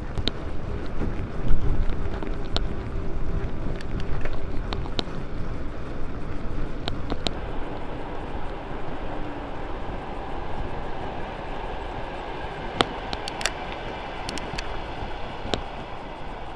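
Bicycle being ridden over a rough path: a steady rumble of tyres and wind on the microphone, with scattered sharp clicks and rattles.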